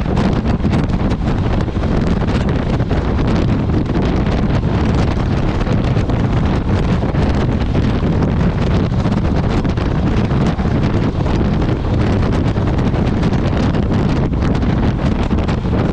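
Wind buffeting the microphone of a moving motorcycle: a steady, loud rush with the bike's running noise underneath.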